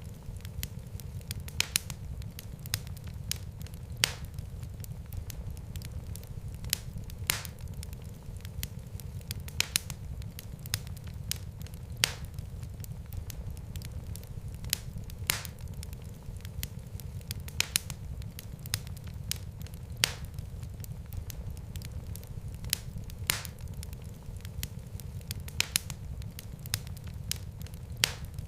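Fireplace fire crackling: irregular sharp pops and snaps, several a second with an occasional louder crack, over a steady low rumble of burning.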